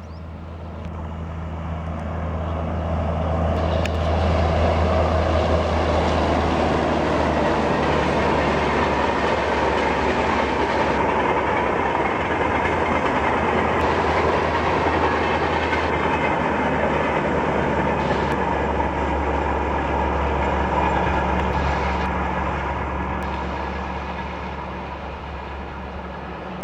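Express train passing through at high speed, wheels rumbling on the rails. The sound builds over the first few seconds, holds for about twenty seconds, then eases off near the end.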